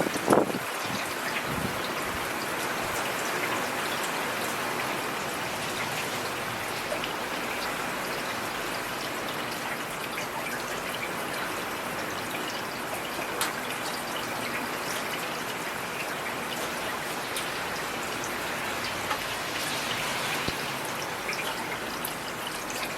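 Steady heavy rain, with scattered drops tapping close by. A brief louder low rumble comes right at the start.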